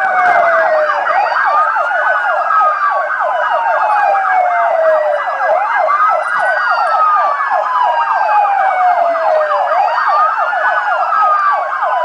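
Emergency vehicle sirens sounding together: one slow wail rising and falling about every four seconds, over a rapid yelp warbling quickly up and down.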